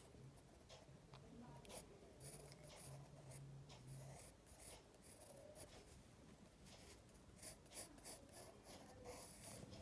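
Faint pencil strokes scratching on paper, in short irregular strokes while a drawing is sketched.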